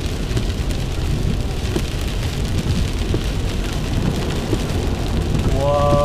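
Heavy rain drumming on a moving car, over a steady low rumble of road and engine heard from inside the cabin. Near the end there is a brief steady hum-like tone.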